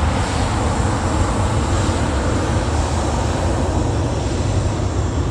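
Airbus A350-900's Rolls-Royce Trent XWB turbofans at takeoff thrust: a loud, steady jet roar with a deep rumble underneath.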